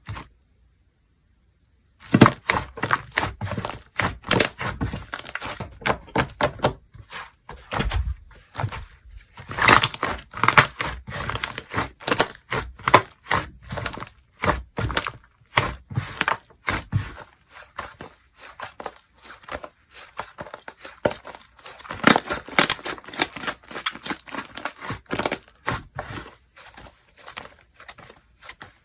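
Slime being squished, pressed and stretched by hand, making a dense, irregular run of sticky clicks and pops. It starts abruptly about two seconds in.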